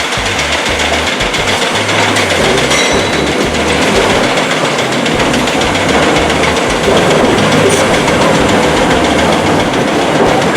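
Heavy diesel construction machinery running loud and steady, with an uneven low rumble.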